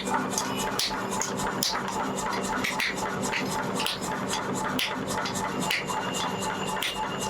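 Repeated short scraping strokes on the rusty steel of a truck leaf spring, as rust is scrubbed off, with a steady low hum underneath.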